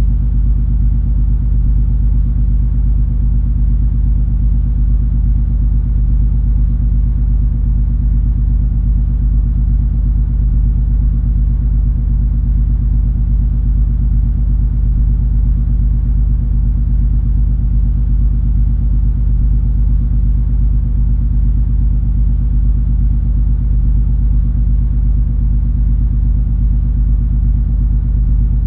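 Cruise ferry MS Color Magic's engines and ship machinery running, a steady deep drone with a low hum and several unchanging tones above it and a fainter even hiss.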